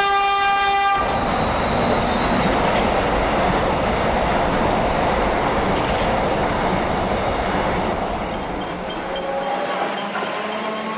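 Electric suburban train sounding its horn in one blast of about a second, then passing close by with a loud, steady rush of wheels and carriages. Faint whining or squealing tones come in near the end.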